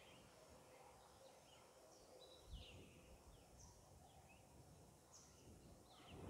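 Near silence, with faint, short, high bird chirps that fall in pitch, repeated irregularly.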